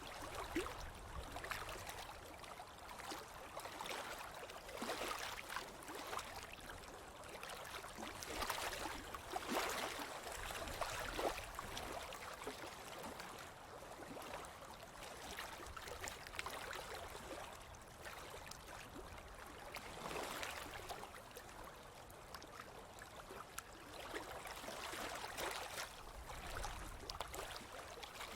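Ocean waves washing onto a beach, the surf swelling and fading in surges several seconds apart.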